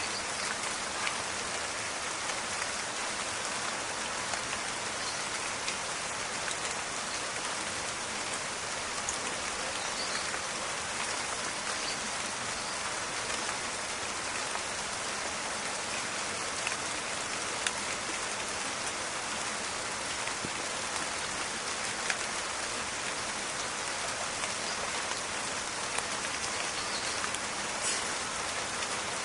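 Steady rain falling in a forest, a dense even patter with scattered sharper drop clicks.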